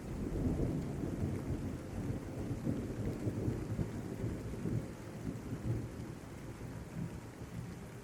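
Rolling thunder over steady rain. The low rumble swells right at the start and slowly eases off over the last few seconds.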